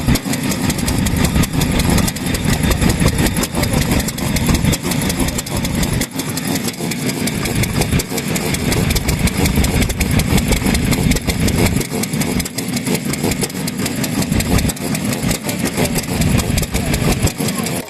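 Small stationary engine running steadily at idle, its exhaust beats coming in a rapid, even pulse.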